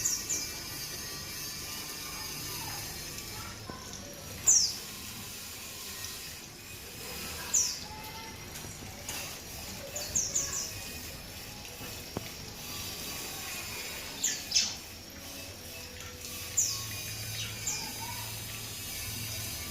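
Small pet parrots calling: sharp, high chirps that drop quickly in pitch, coming every few seconds, some in quick runs of two or three.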